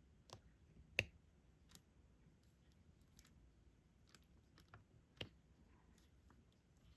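Sparse small clicks and taps of a diamond-painting stylus picking up resin drills and pressing them onto the sticky canvas, the loudest about a second in and again about five seconds in.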